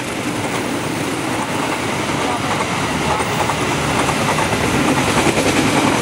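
Kamandaka passenger train running past along the track, its wheels clattering on the rails, getting steadily louder.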